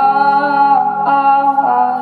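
A woman singing one long held note live over steady instrumental backing, the note shifting slightly about three-quarters of the way through.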